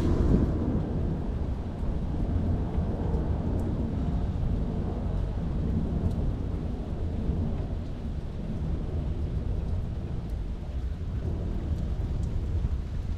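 Steady rain heard from inside a parked car: a continuous low rumble, slightly louder at the very start, with a few faint drip ticks.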